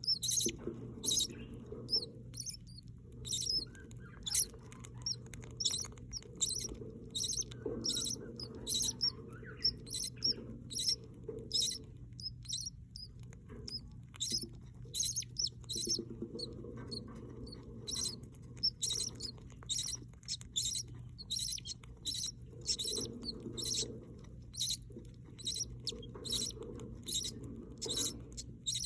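Budgie chicks peeping: rapid short, high chirps, several a second, over a steady low hum.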